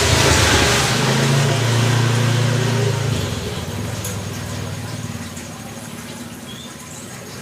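A motor vehicle engine passing close by, its low hum fading away after about three seconds.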